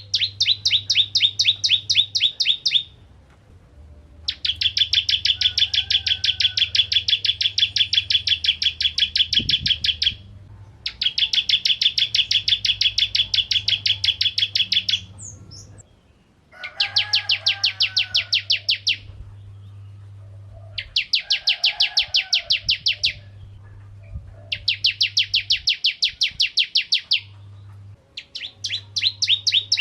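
Ciblek kristal, a prinia, singing: long runs of rapid, evenly repeated high chirping notes, about eight a second, each run lasting a few seconds with short pauses between, over a steady low hum.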